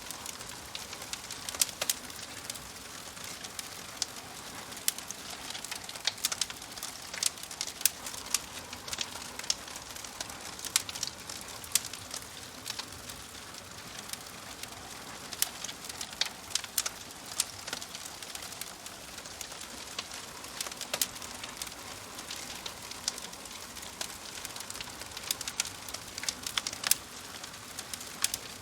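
Wood fire crackling: frequent sharp pops and snaps, irregularly spaced, over a steady soft hiss.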